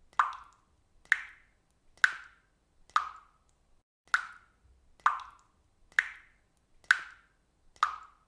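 Water dripping from a faucet: single drops landing at a steady pace of about one a second, nine in all, each short and sharp and dying away quickly.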